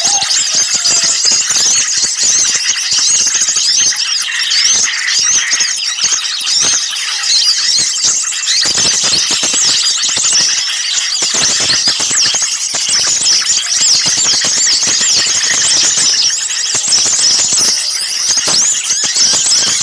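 A dense, noisy chorus of many small songbirds, such as bulbuls, sunbirds and prenjak warblers, chirping and calling over one another in rapid, high-pitched bursts. It is an agitated-flock bird-lure recording played to draw small birds in.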